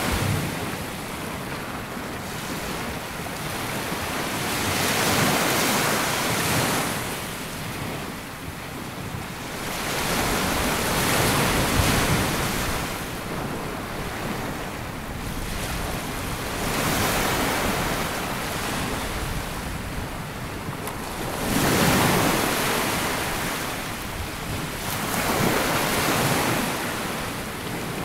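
Small waves breaking and washing up a sandy beach, the surf swelling and falling back every few seconds, with some wind on the microphone.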